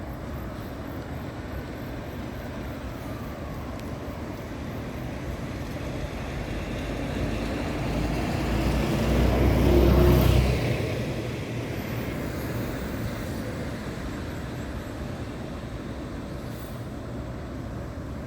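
A road vehicle passing by: its noise swells over a few seconds to a peak about ten seconds in, then fades, over a steady background of traffic noise.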